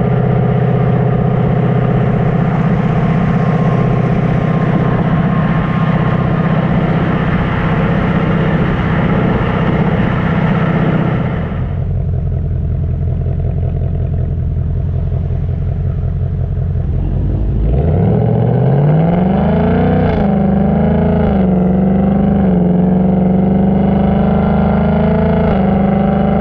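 2019 Mustang GT's 5.0 V8 exhaust through a Pypes H-pipe in track mode, heard from inside the cabin at highway speed with road noise. It drones steadily, eases off about eleven seconds in, then revs climb about seven seconds later and hold with small dips as the car pulls again.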